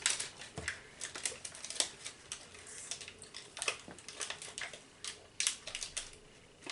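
Plastic snack wrapper crackling and rustling in irregular bursts of clicks as it is handled and pulled open to get a biscuit out.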